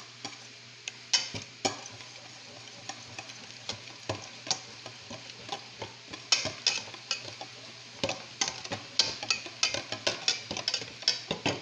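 A utensil stirring a thick yogurt, egg and cornstarch mixture in a bowl, knocking and clicking irregularly against the bowl, the strokes coming faster in the second half.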